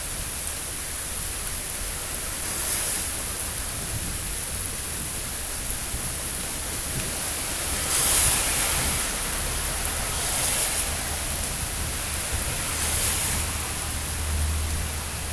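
Steady rain falling, a continuous hiss that swells briefly several times, loudest about eight seconds in, over a steady low rumble.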